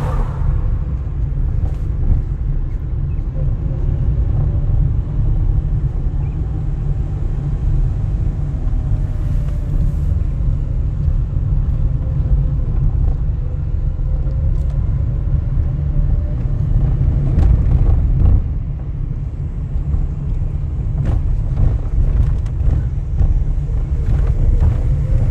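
Car driving along, heard from inside the cabin: a steady low rumble of engine and road noise with a faint tone that drifts slightly up and down, and a few light knocks, the loudest about two-thirds of the way through.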